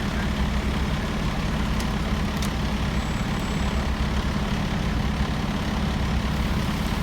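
Heavy truck engine idling steadily, with two short clicks about two seconds in.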